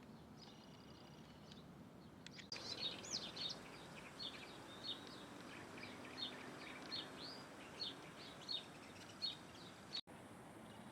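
Birds chirping: a run of short, high chirps, about one or two a second, over a steady background hiss, beginning a couple of seconds in. The sound drops out abruptly near the end.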